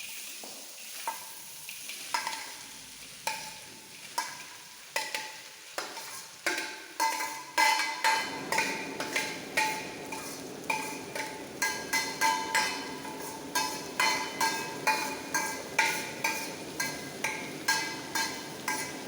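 Repeated ringing metal clanks of a utensil striking a large cooking pot, about one a second at first and then quicker. About eight seconds in, a steady sizzle sets in as sliced onions fry in hot coconut oil while being stirred.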